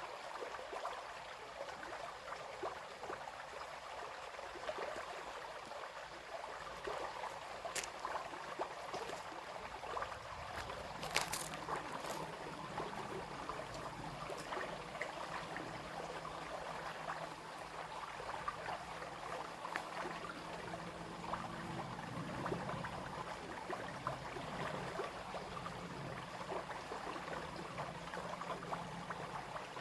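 Small brook running and babbling steadily over stones. A few sharp clicks come about eight and eleven seconds in, and a faint low drone runs under the water through the second half.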